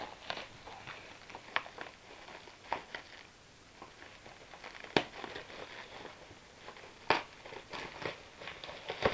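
Bubble wrap and plastic packaging crinkling and rustling as it is unwrapped by hand, with a few sharp clicks, the loudest about five and seven seconds in.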